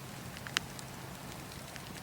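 Wood campfire crackling: scattered small pops and snaps over a steady low rumble and hiss, with one sharper pop about half a second in.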